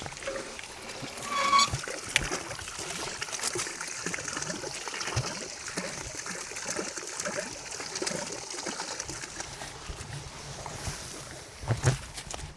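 Stream water running and trickling, a steady hiss. A brief high squeal comes about a second and a half in, and a low knock near the end.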